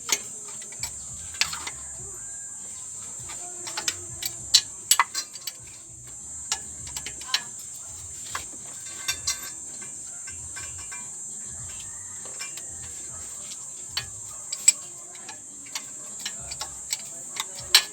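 Irregular metal clinks and clicks of hand tools working on a car engine, over a steady high-pitched hiss.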